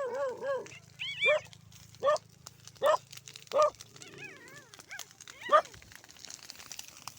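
A dog barking, about six short barks spaced roughly a second apart, with high wavering whines between the barks.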